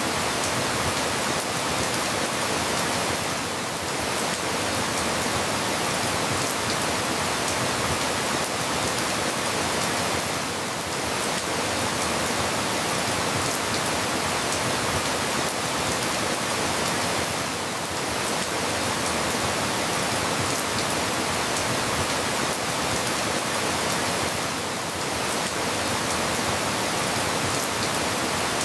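Steady rain falling, an even, dense hiss dotted with many small drop ticks. It dips slightly in level about every seven seconds.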